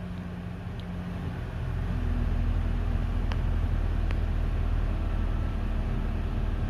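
Car engine idling, heard from inside the car: a steady low hum that gets a little louder about two seconds in, with a few faint ticks.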